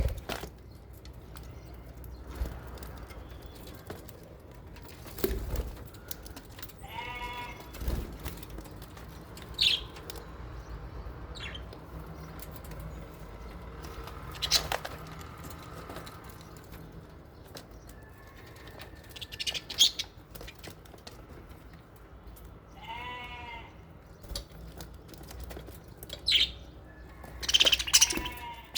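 Aviary budgies and lovebirds calling: scattered short, sharp chirps, with two longer wavering calls, one about seven seconds in and one near the end.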